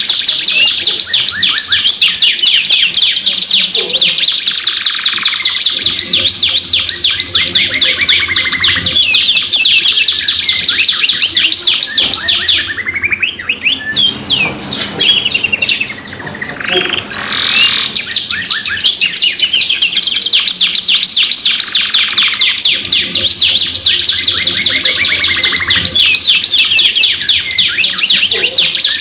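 Domestic canaries singing long, fast, high trilling rolls without a break. About halfway through the song turns quieter and sparser for a few seconds, then the full trilling comes back.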